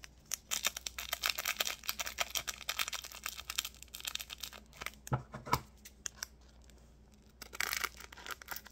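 A small plastic glitter packet crinkling and being snipped open with scissors, with a quick run of crackles and clicks, then two light knocks and a short rustle near the end.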